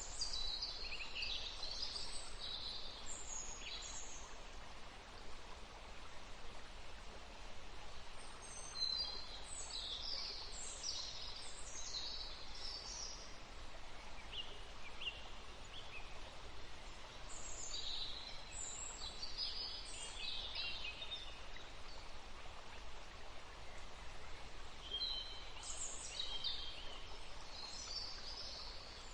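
Songbirds singing in repeated bouts of quick, high chirps, several seconds apart, over a steady outdoor background hiss.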